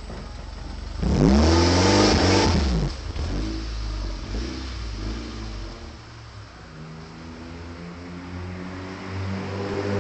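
Mitsubishi Lancer Evolution X's turbocharged 2.0-litre four-cylinder on its stock exhaust. The engine is revved once, sharply, about a second in: the pitch climbs, then falls back to a low idle. The note rises gently again near the end.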